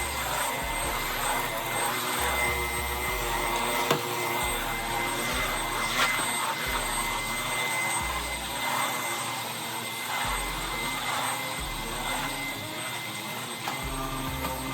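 Vacuum cleaner running steadily with a constant motor whine, with a couple of sharp knocks partway through as it is pushed around the room.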